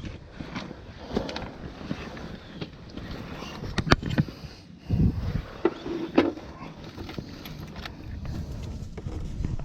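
Steady rain noise with scattered sharp clicks and knocks of tools and parts being handled, the sharpest about four seconds in and a few more between five and six seconds.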